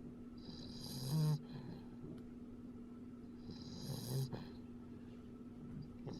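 Labrador Retriever puppy snoring in its sleep: two breaths about three seconds apart, each a breathy hiss that ends in a brief, low snore. A steady low hum runs underneath.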